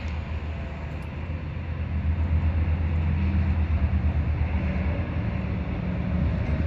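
MV Agusta F4 1000cc inline-four sport bike engine idling steadily while warm, a low, even hum that grows a little louder about two seconds in.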